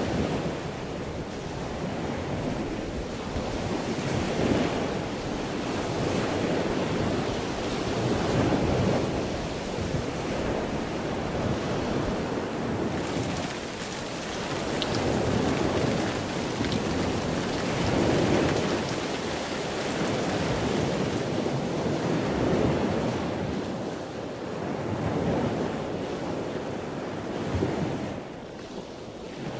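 Ocean surf: waves washing in and falling back, the rush of water swelling and fading every few seconds.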